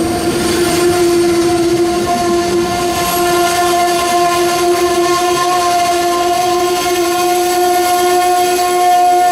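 Amtrak passenger train led by a P42DC locomotive passing, with one steady high tone that rises slightly in pitch near the end.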